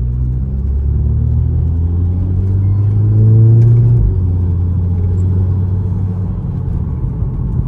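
A car driving, with a steady low engine and road rumble. The engine pitch rises over a couple of seconds, then drops suddenly about four seconds in.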